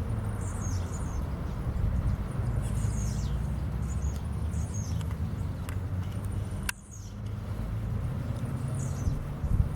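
A mixed flock of small seed-eating birds chirping, with short, high-pitched, downslurred calls every second or so, over a steady low rumble. A sharp click about seven seconds in.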